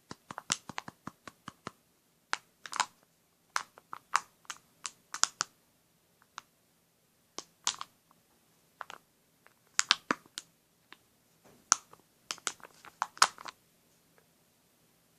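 Cornstarch-and-water slime being handled in its container: irregular clusters of quick, sharp taps and clicks with short pauses between.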